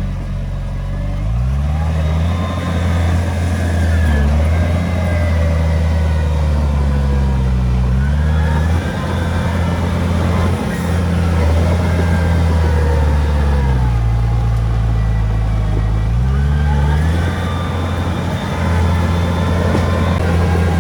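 Diesel engine of a Komatsu D31P crawler bulldozer working under load while pushing stone. Its engine note sags and recovers several times, dropping near the start, again around the middle and for a few seconds near the end before climbing back.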